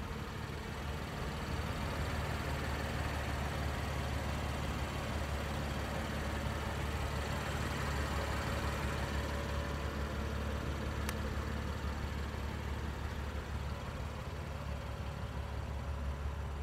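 BMW M3's 3.0-litre twin-turbocharged inline-six idling steadily, a low even rumble.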